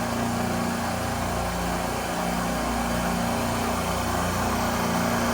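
Steady mechanical hum of running machinery: a constant low drone over an even hiss, with no change in pitch or level.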